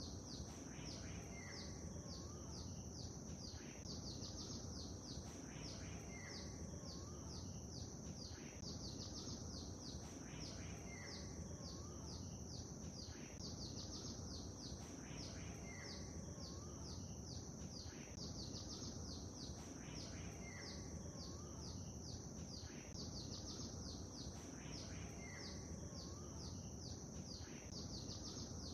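Faint, steady lake and nature ambience: a low even hiss of water, with birds chirping and singing in a quick high chorus and a few lower notes recurring about every two and a half seconds.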